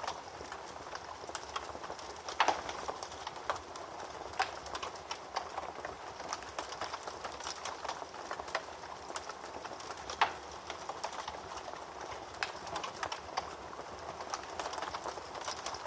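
Wood fire burning in a fireplace: a soft steady hiss with irregular crackles and small pops, two louder pops standing out, one a couple of seconds in and one about ten seconds in.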